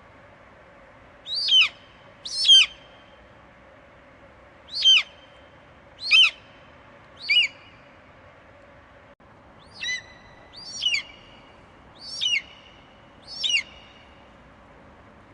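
An eagle giving a series of short, sharp screeches, nine in all, each falling steeply in pitch, spaced about one to two seconds apart, over a faint steady background hiss.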